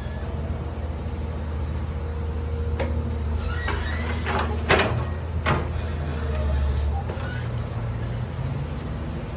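A heavy machine's engine running with a steady low hum, with a handful of sharp metallic clanks and knocks around the middle, the loudest about halfway through. The low hum drops away near the end.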